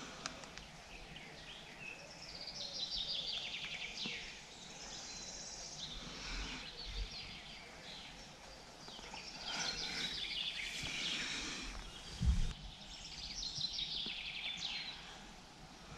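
Songbirds singing: a trilled phrase that falls in pitch is repeated about three times over a faint steady hiss. A short low thump comes about three-quarters of the way through.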